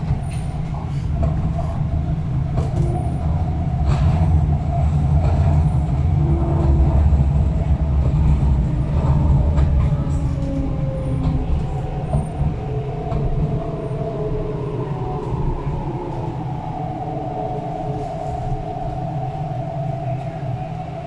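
Inside the cabin of an MTR East Rail R-Train electric multiple unit running on the line: heavy low rumble from wheels and track with a faint motor whine. The rumble is loudest in the first half, and the whine slowly falls in pitch later on.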